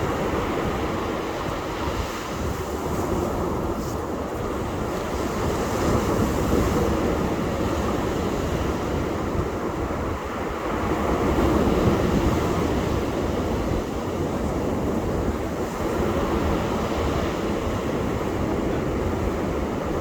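Ocean surf on a beach: a steady rushing wash of breaking waves that swells louder twice.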